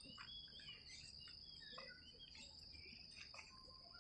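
Faint park ambience: a steady high-pitched insect drone with many short bird chirps over it.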